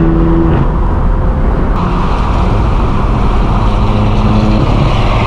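Straight-piped BMW M4 F82 with an AWE Track exhaust, its twin-turbo inline-six running loudly while driving. The engine note holds steady, then drops in pitch a few times.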